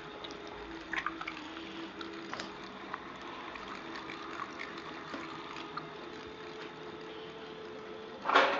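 Old hand meat grinder driven by an electric mini bike motor, running with a steady hum and irregular clicks and wet squishing as it works, and a louder crunch or clatter near the end.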